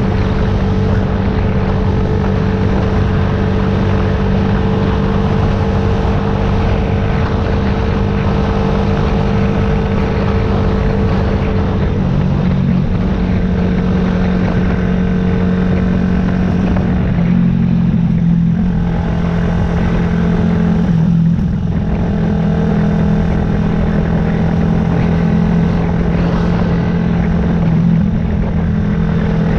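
Yamaha YZF-R125's single-cylinder four-stroke engine running at steady revs while riding, with its note stepping in pitch a few times partway through.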